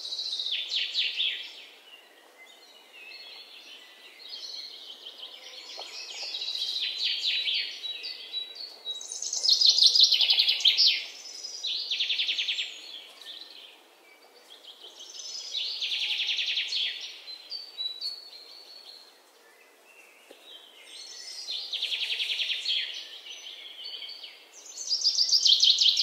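A songbird singing: high, rapidly trilled chirping phrases, each a second or two long, repeating every few seconds.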